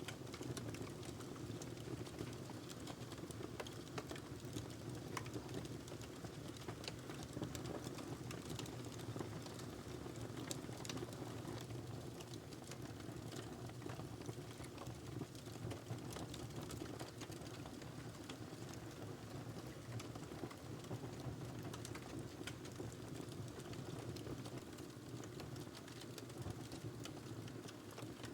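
Wood fire crackling in a fireplace: a dense, irregular run of small sharp pops and snaps over a steady low rumble of the burning fire.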